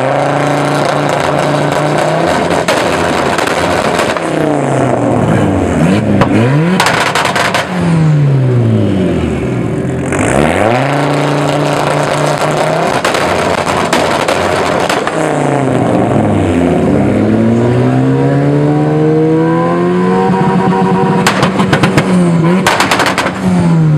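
Turbocharged engines of an Audi S4 and a VW Golf Mk4 revved hard again and again, each rev climbing and falling back, sometimes two at once. Twice, about seven seconds in and again near the end, the revs are broken by a rapid crackle of pops and bangs from the antilag system firing.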